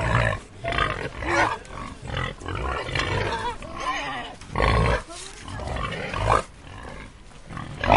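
Pigs grunting and squealing in a run of short, irregular calls, one louder call about halfway through.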